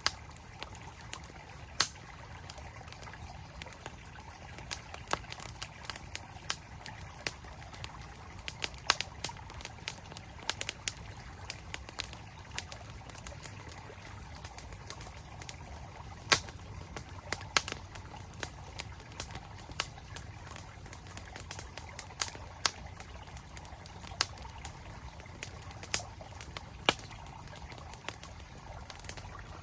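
Wood campfire crackling with irregular sharp pops, over the steady rush of a flowing mountain stream.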